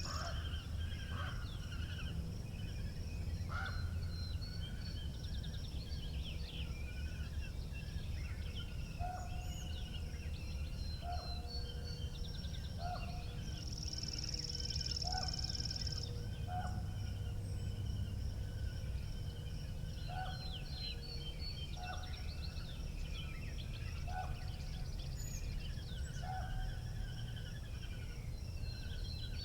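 Wind rumbling on the microphone, with several birds chirping and calling throughout. A short, lower call repeats every second or so through the middle stretch.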